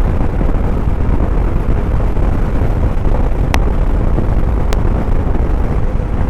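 Steady wind buffeting and road noise from riding a Suzuki motorcycle at speed on a gravel highway. Two short sharp clicks come about a second apart midway through.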